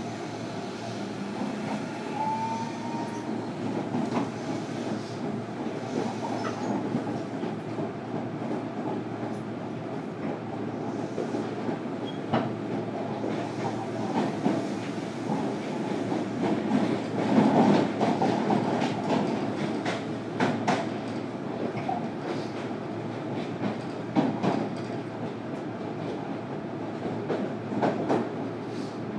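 Running sound recorded inside a JR Kyushu 305 series train's motor car: a steady rumble of wheels on rail, broken by sharp rail-joint clacks and growing loudest about two-thirds of the way through. A brief rising tone comes about two seconds in.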